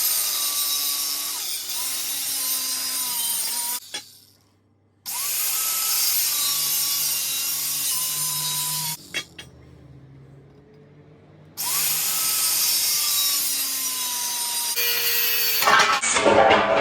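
Abrasive cutting disc on a power tool cutting through steel box section in three runs with short pauses between. Each run starts with the motor whining up to speed, and the whine drops a little as the disc bites into the steel under a loud hiss.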